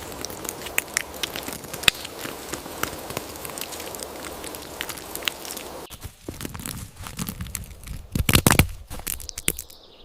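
Squirrel gnawing and cracking a nut shell: rapid dry crackles and crunchy clicks. The steady background hiss drops away about six seconds in, and a cluster of louder crunches comes about eight seconds in.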